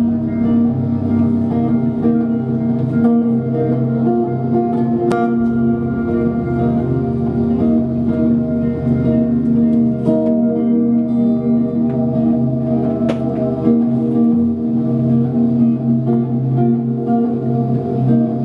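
Live indie band playing the instrumental opening of a song, led by guitar, with sustained notes holding steady.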